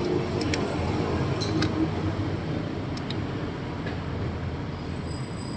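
Steady low rumble of background machinery, with a few light clicks of small parts being handled, several in the first two seconds and one about three seconds in.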